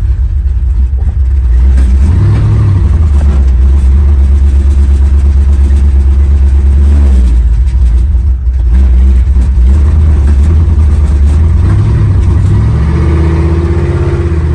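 Old vehicle's engine, not run in a while and still warming up, running with a loud low rumble; its pitch rises and drops back about three times as it revs. The owner says it wants to run a little rough.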